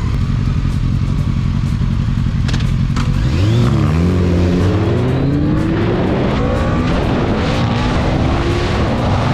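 Motorcycle engine running steadily at low revs, then accelerating from about three seconds in, its pitch climbing as it pulls away and picks up speed.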